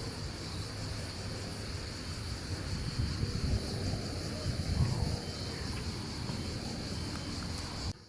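Outdoor ambience: wind buffeting the microphone in low, uneven gusts over a steady high hiss. It cuts off abruptly near the end.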